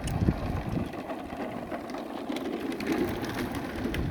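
Truck wheels rolling as it is pushed: a steady rumble with scattered clicks and rattles.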